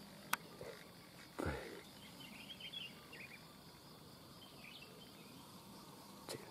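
Faint, short chirps of small birds over a quiet rural background, with a soft click near the start and a brief soft rustle about a second and a half in.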